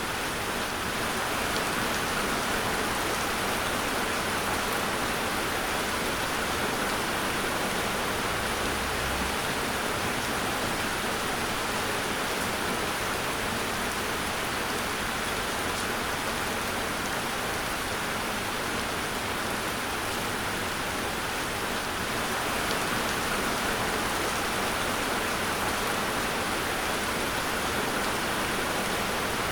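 Steady rain falling, an even hiss of rain without a break or distinct drop impacts.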